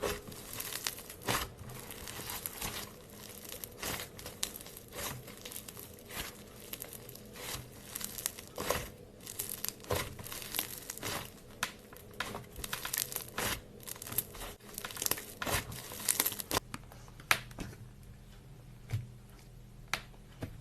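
Clay slime being mixed and kneaded by hand, giving dense, irregular sticky crackles and pops. They thin out to a few isolated pops about three-quarters of the way through.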